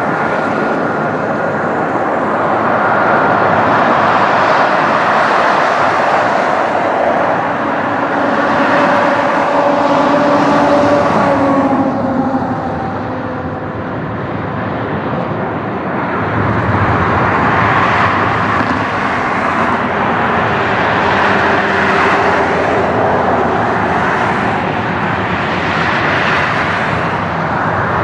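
Jet engines of a Boeing 737-800, CFM56-7B turbofans, running at high power as the airliner passes close: a loud, steady rush with whining tones that slide lower about ten seconds in, then a deeper rumble from about sixteen seconds in.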